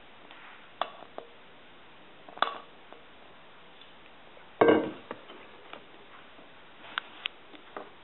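Kitchen utensils clinking and knocking against a mixing bowl in scattered light taps, with one louder clatter about halfway through.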